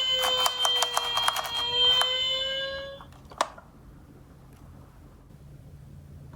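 Toy emergency vehicle's electronic siren wailing with a slowly falling pitch, over a rapid clatter of clicks and knocks from the small cars on cardboard. It cuts off about three seconds in, followed by one sharp click.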